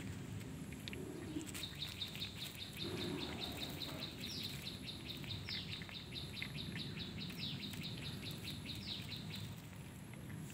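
A bird calling a fast, even series of short high chirps, about five a second, for most of the stretch, with a few notes sliding downward, over steady low background noise.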